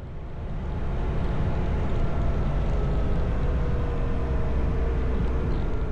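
Motorcycle riding noise: a steady low rumble of wind and road with a faint engine hum, swelling over the first second and then holding.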